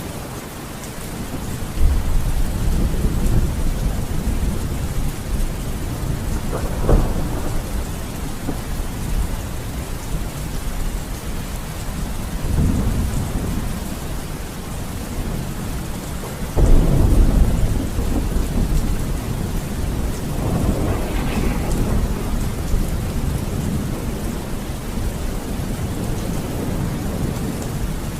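Steady heavy rain with thunder rumbling over it: sudden low claps about 2 and 7 seconds in, and the loudest rumble starting about 16 seconds in and rolling away over a few seconds.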